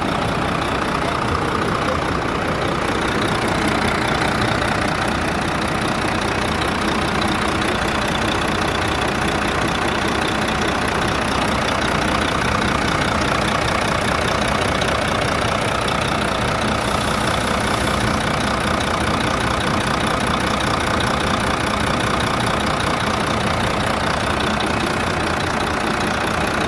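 Volvo FH13's inline-six diesel engine idling steadily, freshly rebuilt and running for its warm-up.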